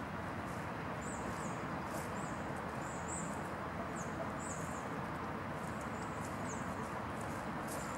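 Short, high chirps of small birds, repeated roughly once a second, over a steady low background rush.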